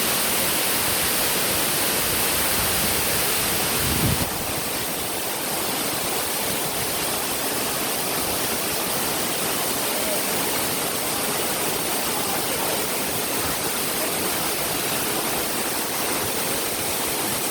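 Waterfall's steady rush of falling water. A brief low bump comes about four seconds in.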